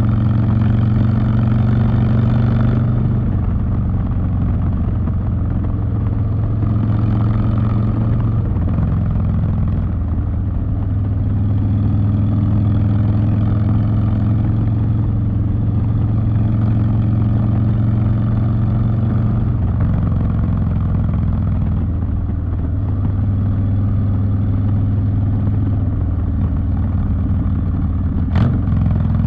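Harley-Davidson Street Bob's V-twin engine running through a TBR 2-into-1 exhaust while riding. The engine note shifts up and down in pitch several times. A sharp click comes about a second before the end.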